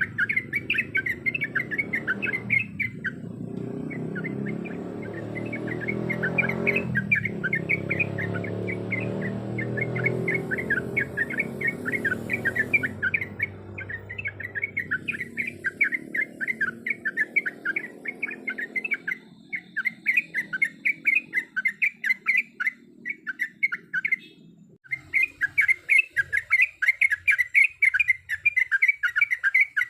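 Yellow-vented bulbul (trucuk) chattering in a fast, unbroken run of short notes, many a second, pausing briefly near the start and again near the end. A low rumble of background noise sits under the first half.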